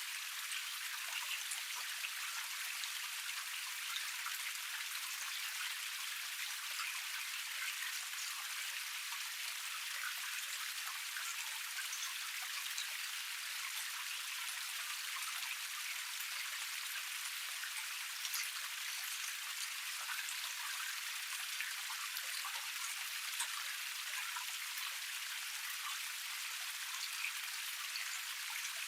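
Small cascade splashing steadily over rock: an even, bright rushing hiss full of fine droplet splashes, with no low rumble.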